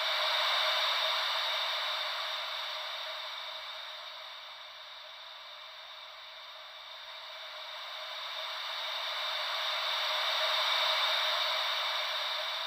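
Ocean waves as a steady hiss with no low rumble, swelling and easing slowly: a surge near the start, a lull in the middle, and a second surge building near the end.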